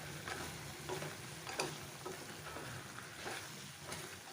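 Chicken in a spiced masala frying in a pan, sizzling steadily, with a spoon stirring and scraping against the pan every second or so.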